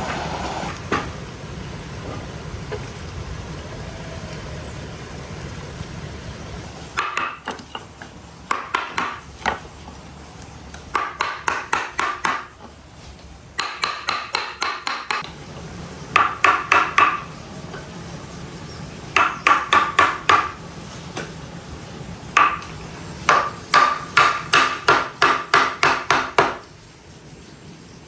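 Hammer driving nails into wood, struck in quick runs of several ringing blows with short pauses between them, starting about seven seconds in. Before the hammering, a steady low rushing noise.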